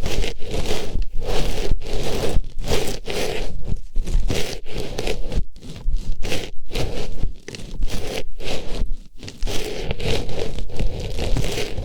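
Artificial flower rubbed and pushed into an ear in close-up ASMR ear-cleaning: a steady stream of rustling, scraping strokes broken by short pauses.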